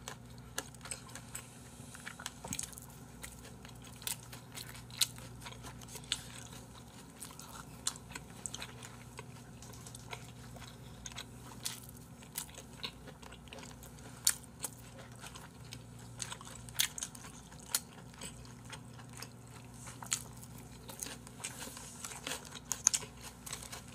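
Close-miked chewing and biting of bossam and kimchi, with irregular small crunches and mouth clicks.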